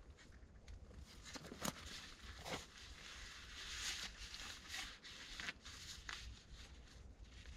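A tarp and its cord being handled: light rustling with a few short knocks.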